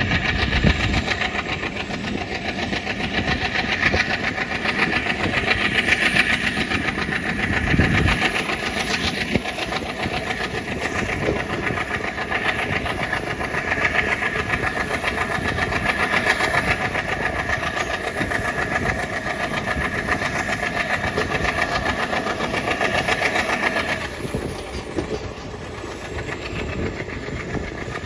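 Alco WDG3A diesel-electric locomotive's 16-cylinder ALCO 251 engine running hard with fast, rhythmic chugging and a faint high whine over it. About 24 seconds in the sound eases and the whine slides down and fades.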